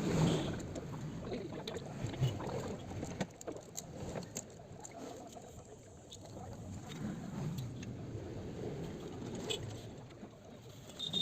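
A few faint metallic clicks and clinks from hand work on a motorcycle engine's timing side: the timing chain, cam sprocket and magneto rotor being fitted and lined up, over a low steady background.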